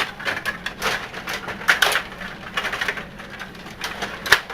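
Stiga table hockey game in play: an irregular run of sharp plastic clicks and clacks as the rods are twisted and slid and the puck strikes the players and boards. One louder knock comes near the end.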